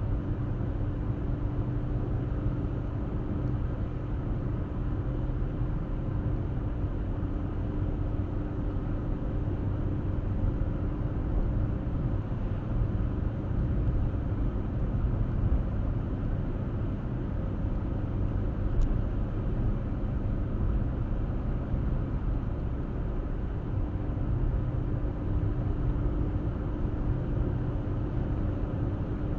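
A car driving steadily on the open road, with constant low tyre and engine rumble. A steady hum fades out for about ten seconds in the middle, then comes back.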